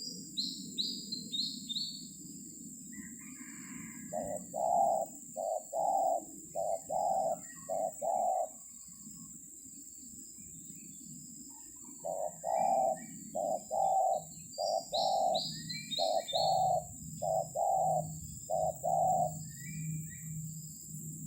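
Spotted dove cooing in two runs of repeated low coo notes, the first a few seconds in and a longer one in the second half. A smaller bird gives quick falling chirps near the start and again partway through, over a steady high hiss.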